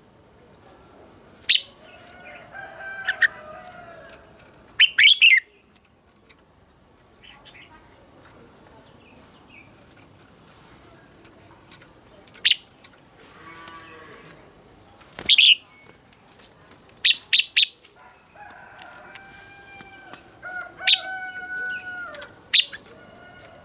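Red-whiskered bulbul song: short, loud, sharp phrases every few seconds, with softer, lower drawn-out whistled notes in between.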